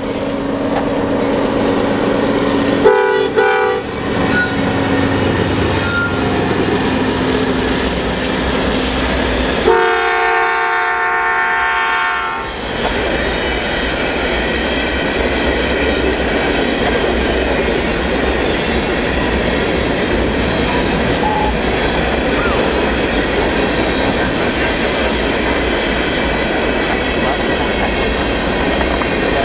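Diesel freight locomotives passing close by, the lead unit's air horn sounding a chord in a short blast about three seconds in and a longer blast around ten seconds in, as a horn salute. After that comes the steady rumble and clatter of the train rolling past.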